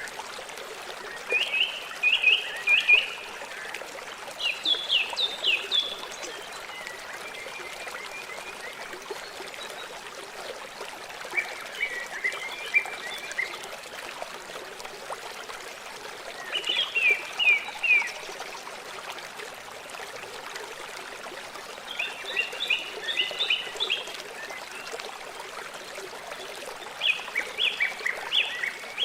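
River water flowing in a steady rush. Over it, a bird calls about seven times in short bursts of rapid falling notes, a few seconds apart.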